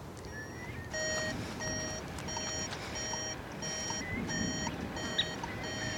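An electronic beep repeating evenly about once every 0.7 seconds, starting about a second in, over a steady low rumble of wind or engine noise.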